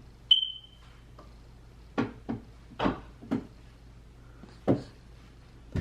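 A sharp click with a brief high ringing tone, followed by a series of short, irregular knocks and clicks, like objects being handled or bumped.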